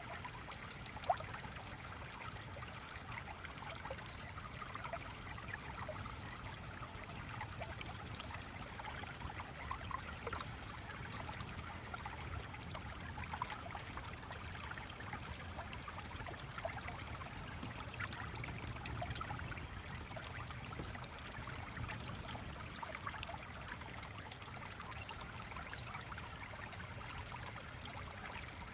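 Gentle stream trickling and flowing steadily, with a single sharp tick about a second in.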